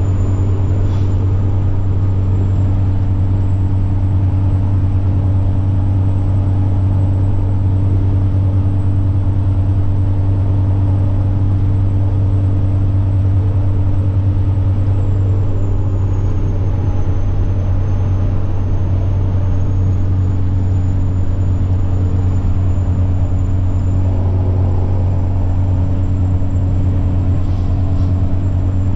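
Semi-truck diesel engine running steadily at cruise, a strong low drone with a thin high-pitched turbocharger whine over it. The whine sags slightly about halfway through and climbs back up a few seconds later.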